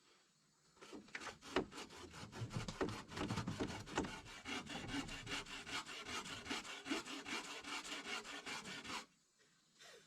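A hand tool working wood in quick, rhythmic rubbing strokes, starting about a second in and stopping about a second before the end.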